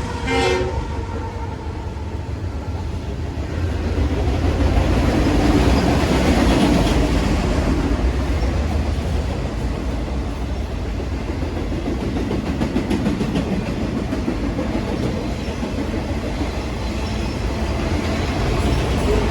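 A train passing close by: the tail of its horn chord cuts off about half a second in, then a steady rumble of the train running over the rails, with some wheel clatter.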